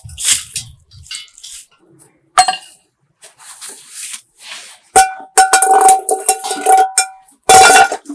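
Metal objects clanking and striking against each other, each hit ringing briefly at a steady pitch, with a dense run of hits in the second half and softer scraping rustles before.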